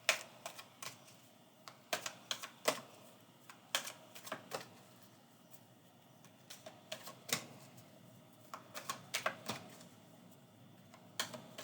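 Oracle cards being handled, shuffled and laid down on a table: irregular sharp taps and clicks, some in quick clusters.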